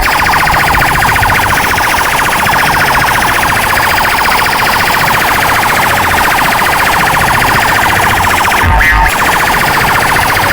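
Fast-warbling, siren-like electronic tone blasted at high volume through a competition DJ sound system, with a short heavy bass thump near the end.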